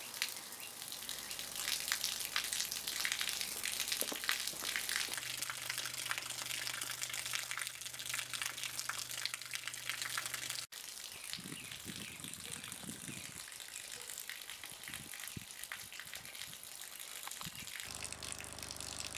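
A stream of water gushing and splashing. A steady low hum sounds under it from about a quarter of the way in until an abrupt break near the middle, and a different low hum comes in near the end.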